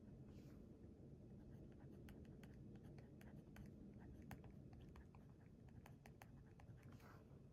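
Faint pen-on-paper writing: quick small ticks and scratches of strokes, with a brief swish about half a second in and another near the end.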